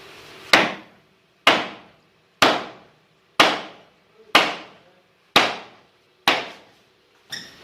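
Hammer blows on wood, about one a second, eight strikes in a steady rhythm, each sharp and dying away quickly. The last strike is weaker.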